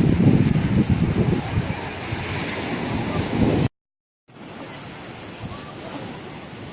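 Sea surf washing on the shore with wind buffeting the microphone, cut off suddenly just past the middle by a half-second gap of silence; after it the surf goes on quieter and steadier, with less wind.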